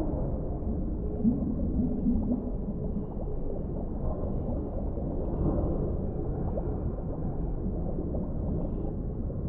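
Underwater ambience: a steady low, muffled rumble with gurgling and wavering low tones in the first few seconds, and faint scattered ticks.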